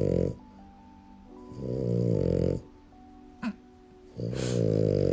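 Black merle French bulldog snoring: long, low snores about two and a half seconds apart, each lasting about a second, over soft background music.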